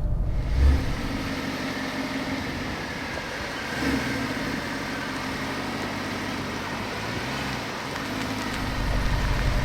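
The 6.2-litre V8 of a Mercedes-Benz SLS AMG idling in reverse gear: a steady low hum with a brief swell about four seconds in.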